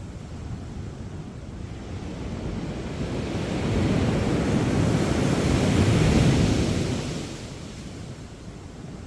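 Sea waves breaking on a sandy beach: surf swells to a loud crash of a wave about six seconds in, then washes back and fades, with some wind on the microphone.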